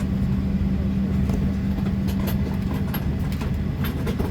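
Steady cabin hum of a Boeing 737-800 parked before engine start: a constant low drone with a steady hum tone from the air supply, and a few faint clicks.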